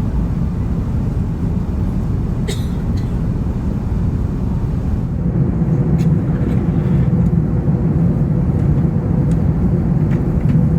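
Steady low rumble of an Airbus A380 cabin in flight, engine and airflow noise, growing a little louder about halfway through, with a few faint clicks.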